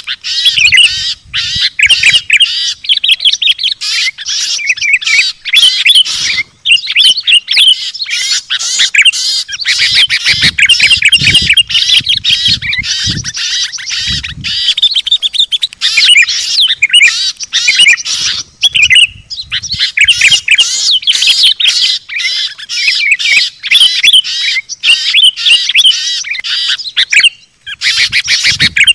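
A dense, agitated chorus of many small songbirds chirping and chattering over one another almost without a pause. This is a bird-lure call recording (suara pikat), a 'noisy birds' mix meant to bring wild birds down.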